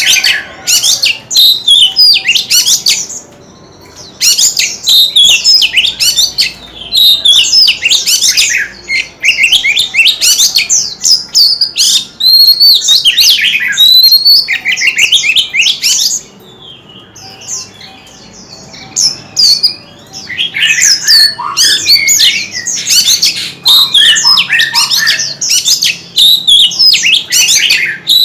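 White-rumped shama singing: long runs of rapid, varied whistled and chattering notes. The song breaks off briefly about three seconds in, and again for a few seconds past the middle.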